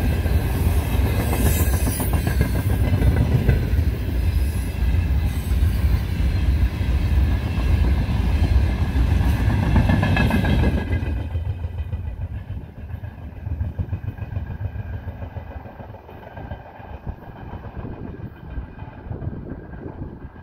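Freight train of open gondola wagons rolling past close by, the wheels clattering over the rails with a steady rumble. About eleven seconds in the noise drops sharply and then fades as the train moves off.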